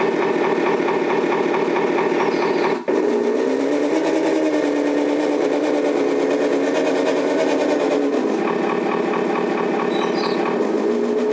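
Turbo9 sound module in a 1/14-scale RC truck playing a simulated truck engine through its small speaker, running steadily. It cuts out briefly just under three seconds in, then the engine note rises for about four seconds, as if revving under throttle, and falls back to a lower note.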